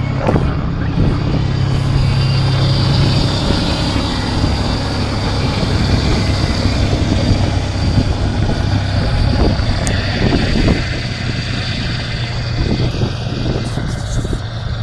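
1998 Ford F-150's 4.2-litre V6 engine idling steadily just after a cold start at about −17 degrees. It gets slightly quieter about eleven seconds in.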